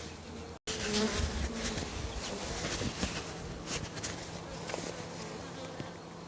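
Honey bees buzzing in an open hive as frames are inspected, a steady hum with a few faint clicks, cut by a brief dropout just over half a second in.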